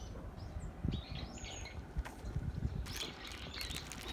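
Small songbirds chirping and trilling in short high phrases, about a second in and again near the end, over a low rumble with a few dull bumps and clicks.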